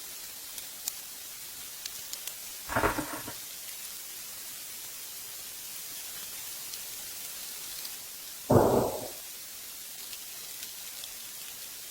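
Steady rain hiss with scattered tiny ticks of drops. Two brief dull thumps stand out, one about three seconds in and one about eight and a half seconds in.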